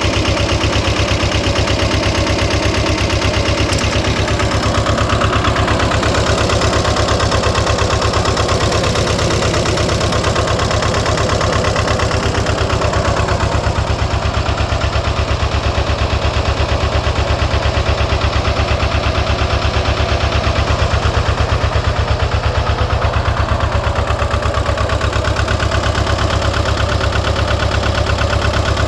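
Lister ST2 two-cylinder air-cooled diesel running steadily at a constant speed, a fast, even pulsing with no revving.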